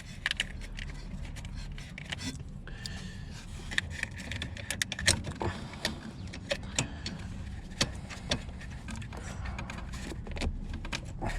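Scattered small metal clicks and taps as a gear-shift cable end is handled and pushed onto the greased selector shaft of a car's gearbox linkage, over a low steady hum.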